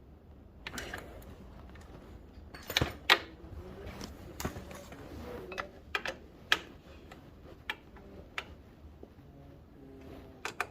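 Irregular clicks, clinks and knocks of hand tools and metal parts being handled during motorcycle repair work, loudest about three seconds in.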